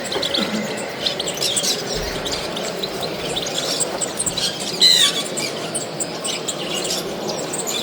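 European goldfinch singing a rapid twittering song of short, high chirps, with a louder gliding note about five seconds in.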